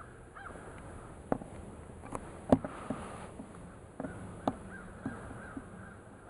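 Crows cawing faintly, with several sharp clicks and knocks close by, the loudest about two and a half seconds in.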